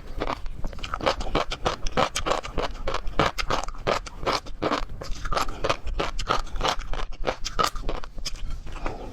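Close-miked chewing of seafood: rapid wet clicks and crunches, several a second, without pause.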